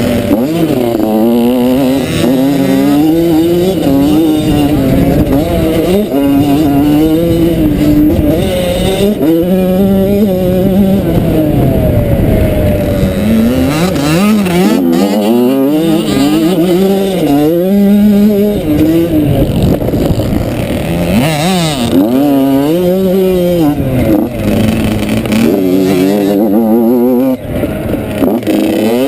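Motocross bike engine revving hard and easing off again and again, its pitch climbing and dropping every second or few as it is ridden.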